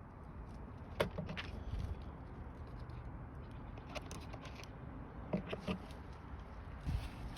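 A few light clicks and knocks of parts and tools being handled, over a low steady background rumble.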